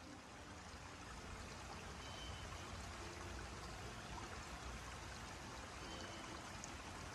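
A stream's water rushing steadily, with a few faint short high notes every few seconds.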